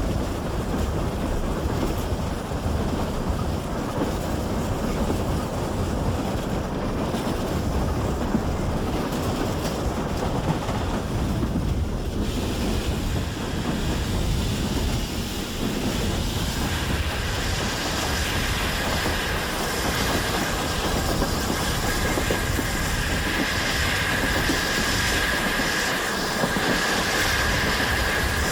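Train running on the rails, heard from on board: a steady rumble of wheels on track. A little past halfway a high, steady squeal comes in and holds.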